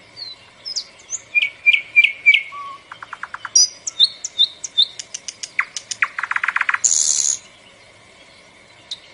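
A songbird chirping a fast, varied song of sharp whistled notes and quick trills, with a harsh rasping note about seven seconds in. It pauses briefly, then starts chirping again near the end.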